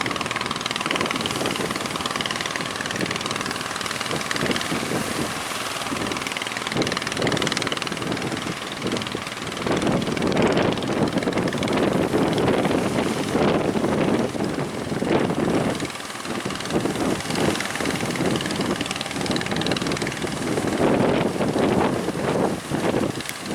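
Boat engine running under way while strong wind buffets the microphone, the gusts growing louder about ten seconds in.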